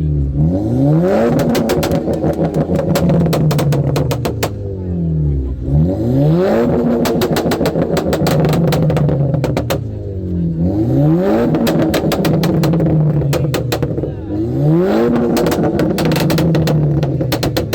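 Car engine revved again and again, rising and falling in pitch about every five seconds, with rapid crackling pops from the exhaust after each rise.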